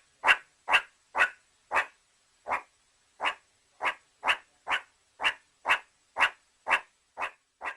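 An animal barking in a steady, even rhythm, short sharp barks about two a second, repeated some fifteen times.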